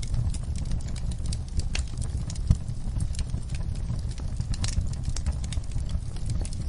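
Wood fire in a fireplace crackling, with irregular sharp pops over a steady low rumble of the flames; one louder pop about two and a half seconds in.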